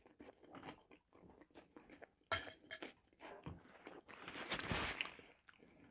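Quiet close-miked chewing and mouth sounds of a person eating, with two sharp clicks of a fork against a plate about two and a half seconds in, and a soft hiss lasting about a second near the end.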